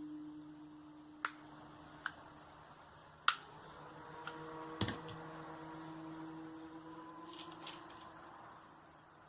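A faint, steady droning hum of several held tones, the kind of noise reported as a strange sound in the sky, broken by four sharp clicks in the first five seconds.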